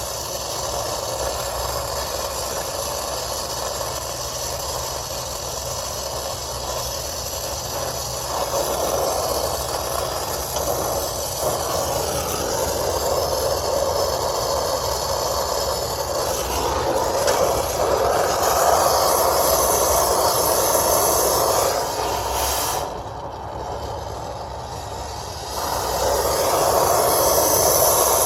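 Brazing torch flame burning steadily as a copper refrigerant coupling is heated and brazed. It drops away for a couple of seconds near the end, then comes back.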